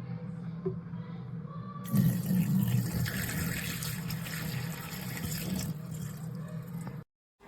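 Dreame H12S wet-dry vacuum running with a steady motor hum; about two seconds in it grows louder with a rushing, water-like wash, then cuts off suddenly near the end.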